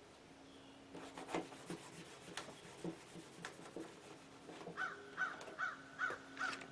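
Melamine foam (magic eraser) pad scrubbing a plastic CRT monitor case in short strokes. From about five seconds in, the strokes squeak in a regular rhythm of about two to three a second, a sign that the eraser has gone dry.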